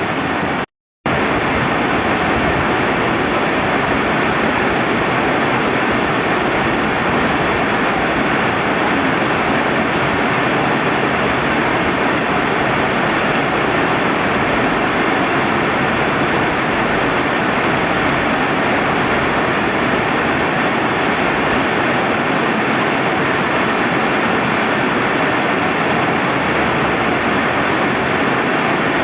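Steady rain and flowing river water making an even, dense hiss, broken by a brief cut to silence about a second in.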